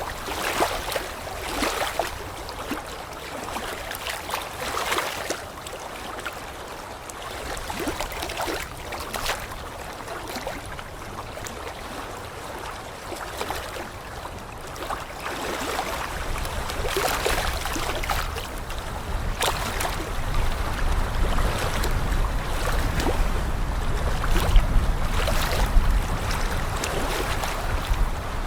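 Moving water sloshing and washing in irregular surges. Wind buffets the microphone as a low rumble that grows stronger about halfway through.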